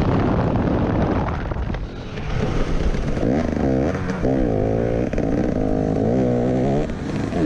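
Motocross bike engine being ridden hard, with wind buffeting the microphone. From about three seconds in, the engine note rises and falls quickly over and over with the throttle, for a little under four seconds.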